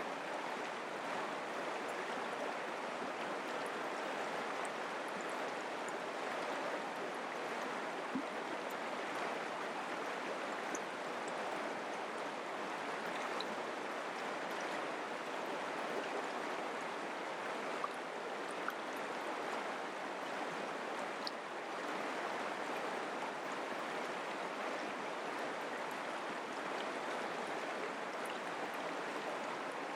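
Mountain creek running steadily over rocks, a constant rushing with a few faint small splashes.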